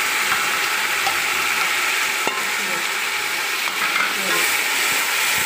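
Crushed tomato, ginger-garlic and green-chilli paste sizzling in hot oil with fried onions in an aluminium pot, stirred with a spoon; a steady, loud frying hiss.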